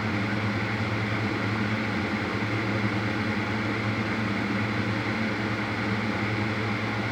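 Steady machine hum: a low, unchanging drone with an even hiss over it, from a running fan-like machine near the microphone.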